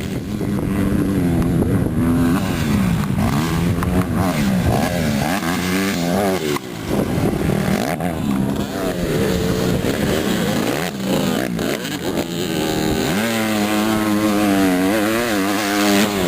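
150cc dirt bike engine revving up and down again and again, its pitch climbing and dropping every second or two, with a longer high-rev pull near the end.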